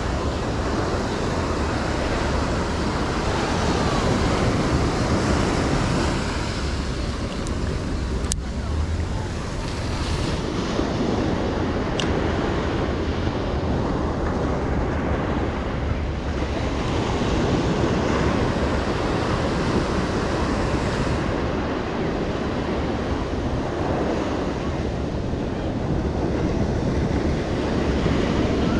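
Ocean surf washing onto the beach in slow swells, with wind buffeting the microphone. Two brief clicks come about eight and twelve seconds in.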